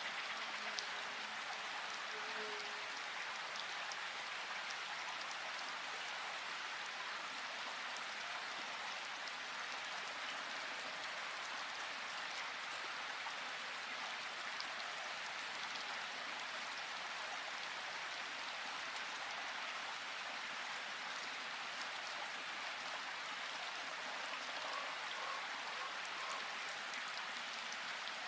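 Rushing river water splashing steadily and evenly, with no change in level.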